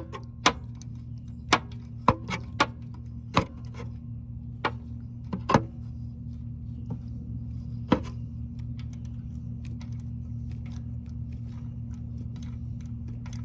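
Ratchet wrench clicking in short, irregular strokes while loosening the 10 mm bolt on an exhaust cam VVT solenoid. The clicks come about once or twice a second for the first six seconds, then only now and then, over a steady low hum.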